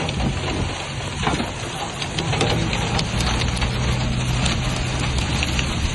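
Heavy rain pouring down, with many sharp taps of drops striking a hard surface. A steady low hum runs beneath it from about two seconds in.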